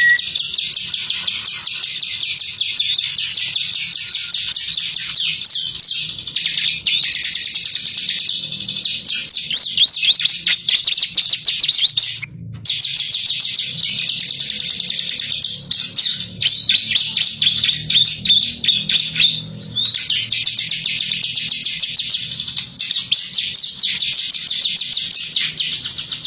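Ciblek (bar-winged prinia) singing nonstop in loud, high, rapid trilled phrases, with a sudden brief break about twelve seconds in.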